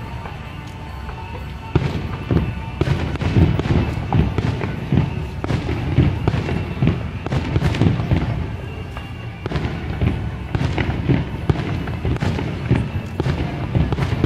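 Fireworks display: a dense run of bangs and booms, starting about two seconds in and going on without a break, with music playing underneath.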